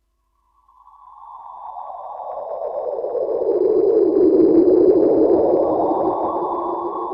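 NASA's sonification of simulated light echoes from a black hole's accretion disk. After a short silence, a tone fades in and slides downward in pitch into a wide, dense swell that is loudest about halfway through, then slowly dies away, with faint high steady tones above it.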